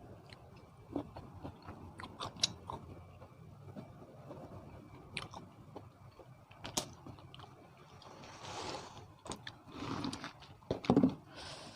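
Close-up eating sounds of a person biting and chewing spicy seafood papaya salad: crunching and wet mouth clicks, with a few louder bursts near the end.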